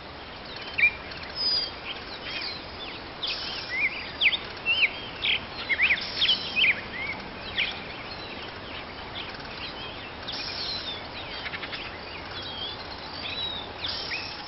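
Forest ambience: many birds chirping and calling in short, quick rising and falling notes over a steady background hiss.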